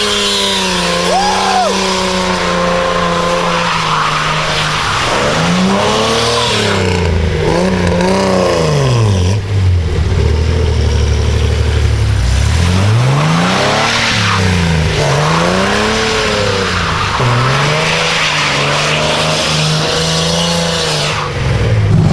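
A car engine revving hard, held high for a few seconds and then climbing and dropping again and again, over continuous tyre squeal as the car does a burnout or donuts.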